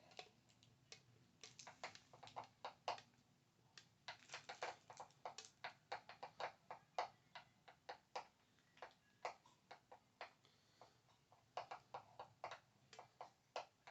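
Faint ASMR tapping: light, sharp taps and clicks on small hard objects, coming irregularly in quick little runs.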